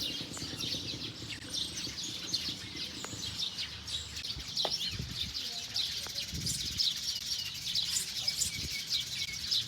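A flock of small birds chirping together: a dense, continuous chatter of short, high chirps.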